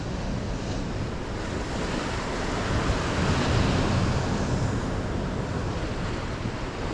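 Sea surf washing steadily on the shore, swelling a little midway, with wind on the microphone.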